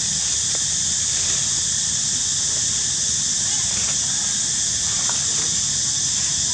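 A steady high-pitched hiss of outdoor ambience, with a few faint clicks.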